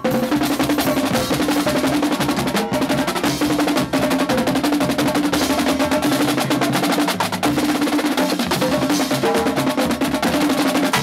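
Marching band drumline playing a fast, continuous cadence of rapid drum strokes, snare drums over deeper drums.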